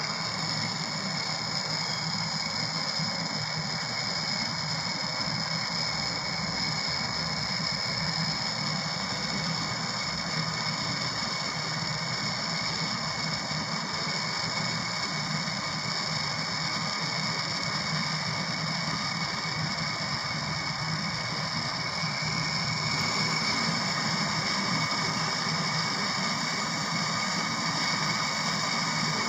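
Steady running of a small motor-driven refrigeration machine, a compressor or vacuum pump, with a constant hum and a whine. It gets slightly louder about 23 seconds in.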